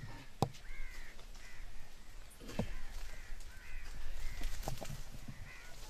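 A bird calling several times in short calls, with a few sharp knocks in between.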